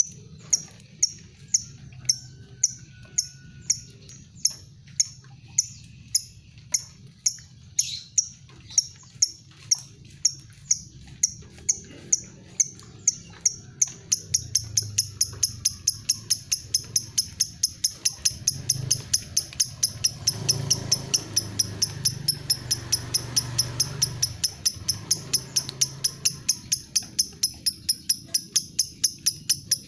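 Lovebird giving its 'ngetik' call: a train of sharp, high, ticking chirps, about two a second, quickening to about four a second halfway through. The call is used to provoke other lovebirds into calling.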